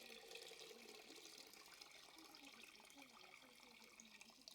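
Faint running, trickling water that tails off and stops near the end.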